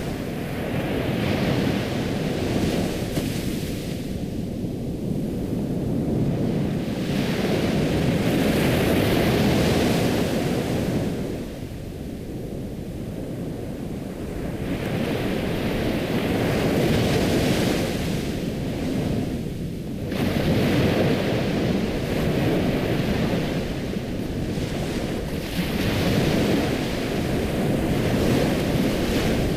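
Ocean surf: a steady rush of water with waves breaking and washing back, swelling and easing every five to eight seconds.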